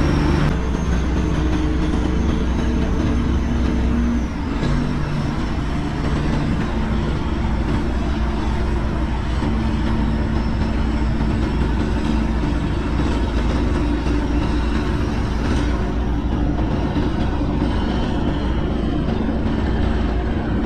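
A tugboat's engine running steadily with a low, even hum. The engine note shifts about four seconds in.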